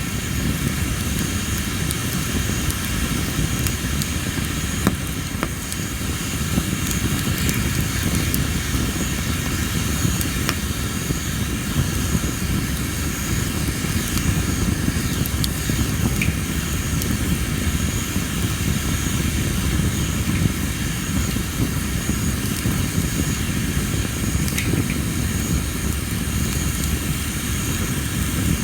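Tree-of-heaven (ailanthus) wood campfire burning with a steady low rumble and scattered sharp crackles and pops, a few seconds apart, over steady insect chirring.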